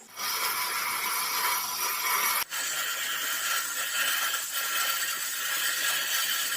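Workshop tool noise: a steady, hissing abrasive or scraping sound from working material in the shop, in two stretches joined by a sudden cut about two and a half seconds in.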